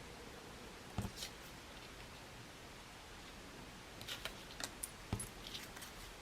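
Faint, scattered taps and clicks of small craft materials being handled and set down on a work surface. A louder knock comes about a second in, and a quick run of small clicks follows between about four and five seconds.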